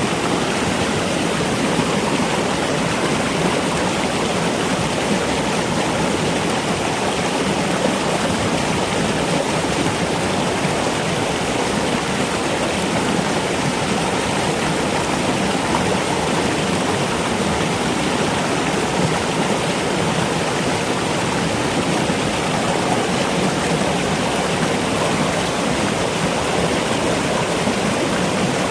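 Steady rush of flowing water, an even wash of sound with no breaks or distinct calls.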